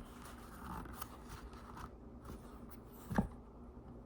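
Packaging handled by hand while the glasses are taken out: faint scraping and rustling, a few light clicks, and a louder knock about three seconds in.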